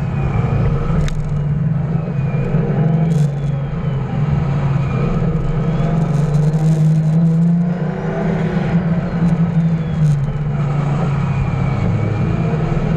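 LS1 V8-swapped drift car's engine held at high revs through a slide, the note fairly steady and dipping briefly about eight seconds in and again near the end.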